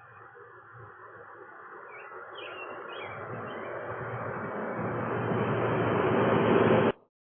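A rushing noise swells steadily louder and then cuts off abruptly near the end, with a few short bird chirps about two to three seconds in.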